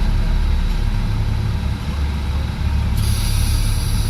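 A heavy vehicle's engine running with a steady low rumble. About three seconds in, a high-pitched squeal starts over it.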